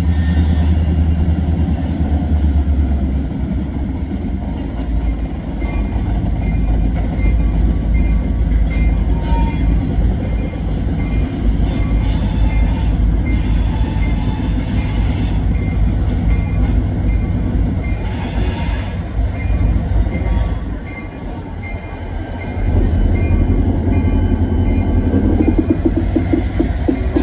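Freight train passing a crossing: steady diesel locomotive and rolling-car rumble, with a crossing-signal bell dinging at a regular beat.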